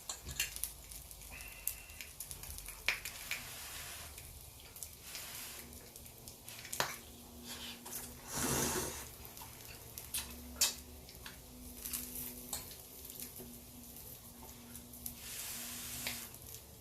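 Food sizzling in a frying pan, with scattered sharp clicks and scrapes of a utensil. A brief louder rush of noise comes about halfway through.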